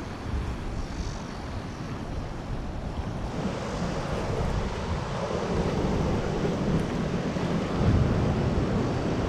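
Wind buffeting the microphone over waves washing on the shore, growing louder about three seconds in.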